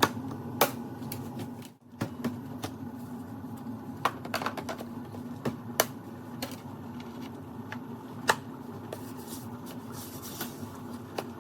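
A steady mechanical hum with sharp clicks and taps scattered irregularly over it.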